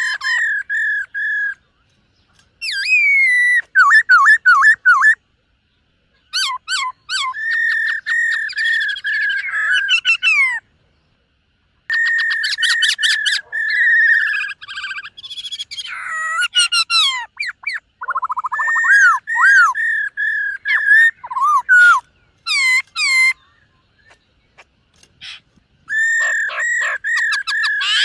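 Black-throated laughingthrush singing: loud whistled phrases of quickly repeated notes and up-and-down slurs, broken by pauses of a second or two.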